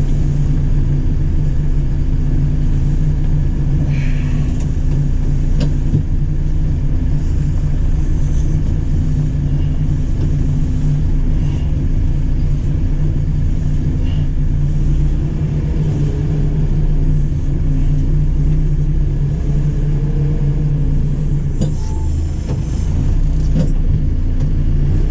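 JCB 4CX backhoe loader's diesel engine running steadily under working load, with a whine that rises and falls in pitch in the second half as the hydraulics work the backhoe.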